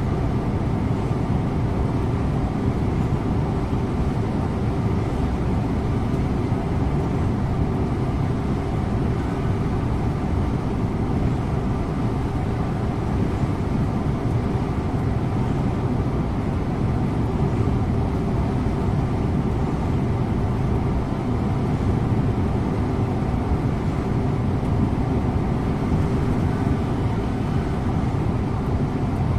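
Scania InterLink bus driving at a steady pace, heard from the driver's seat: an even engine hum under steady road and tyre noise, with no change in speed or gear.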